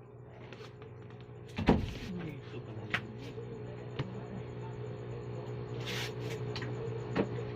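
Knocks and clicks of a box being handled and set up, the loudest about two seconds in and a few lighter ones after, with a short rustle near the end, over a steady low hum.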